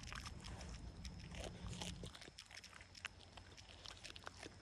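Dog chewing and biting into a whole turkey chick: faint, irregular crunches and clicks.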